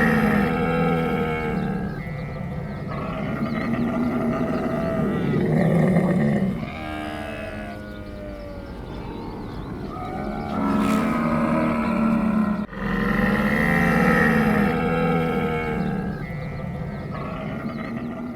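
Camel grunting: a series of long, drawn-out, throaty calls with a strong low pitch, broken off sharply about thirteen seconds in and then starting again.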